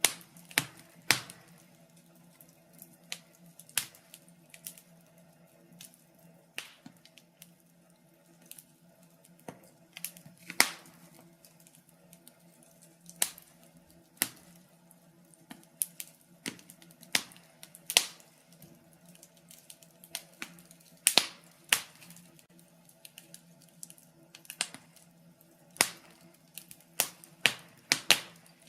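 Wood logs burning in a fireplace, crackling with sharp, irregular pops: sometimes a few in quick succession, sometimes a second or two apart. Under them runs a faint steady hum.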